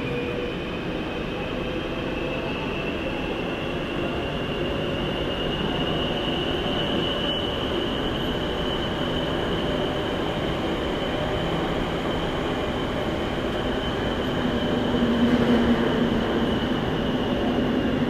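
Daegu Metro Line 1 subway train running, heard inside the passenger car: steady rumble of wheels on rail under a high electric whine that rises slightly over the first few seconds and then holds steady, the low rumble swelling a little near the end.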